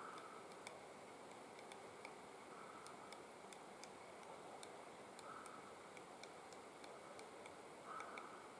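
Faint, irregular sharp taps, several a second, typical of a three-toed woodpecker pecking and chipping at bark while it forages. About every two and a half seconds there is a short, faint, higher sound.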